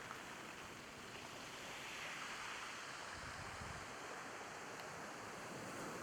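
Sea waves washing onto the shore, a steady rush that swells about two seconds in and slowly eases.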